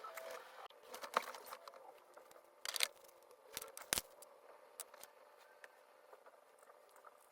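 A few scattered sharp clicks and taps over a faint background, the loudest about three and four seconds in.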